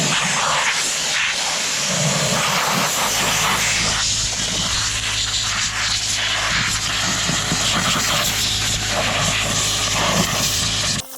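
Compressed-air blow gun blasting caked grass and debris off a lawn tractor's mowing deck: a loud, steady rushing hiss that cuts off sharply near the end. A low steady hum joins it about three seconds in.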